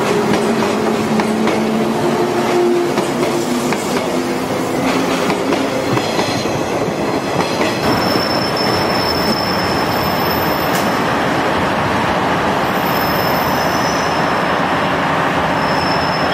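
A 485-series electric limited-express train running past, its wheels clacking steadily over the rail joints. A low hum sounds under it for the first four seconds or so, and a thin high squeal comes and goes in the second half.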